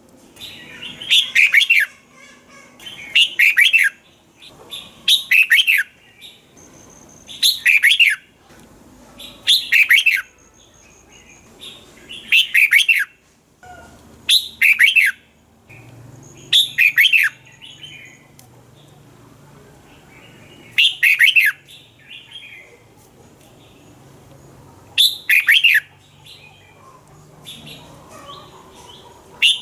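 Red-whiskered bulbul singing: short, loud song phrases repeated about every two seconds, with a few longer pauses in the second half.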